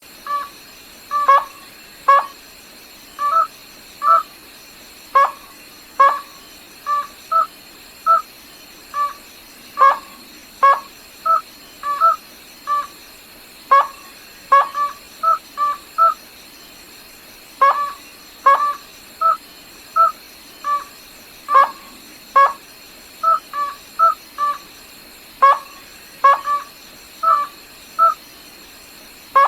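A rail, the species known in Vietnamese as gà nước họng trắng, giving short, sharp calls over and over, singly and in quick pairs, about one to two a second with brief pauses. A faint steady high whine runs underneath.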